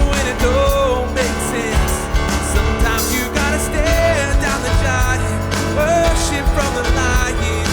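Live worship band playing an upbeat song with drums, bass, guitar and piano, with a melody line sliding between notes over a steady beat.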